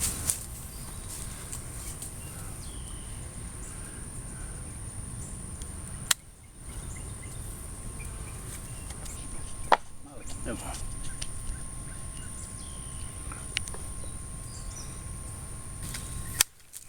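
Small tree limbs being cut, four sharp snaps a few seconds apart over a steady low outdoor background, with a faint steady high tone throughout.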